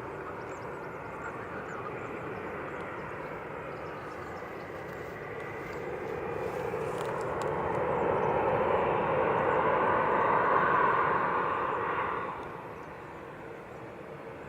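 Jet airliner engines passing, a steady rushing noise that swells over several seconds, is loudest past the middle, then falls away quickly near the end.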